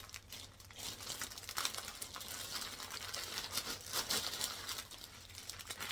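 Small plastic bags of diamond-painting drills crinkling as they are handled, with scattered small clicks.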